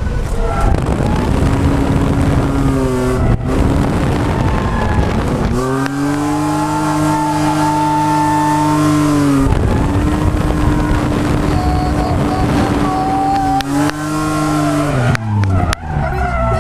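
Ford Falcon FG drift car engine revving hard while drifting. It twice holds a high, steady pitch for a few seconds, then drops away, with tyre squeal over it.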